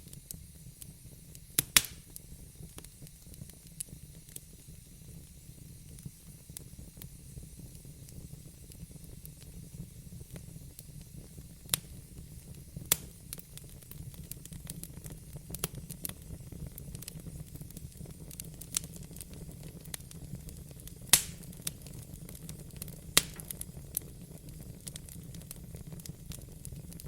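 Wood fire burning in a fireplace, crackling with scattered sharp pops over a low, steady rumble; a few louder pops stand out, near the start and twice late on.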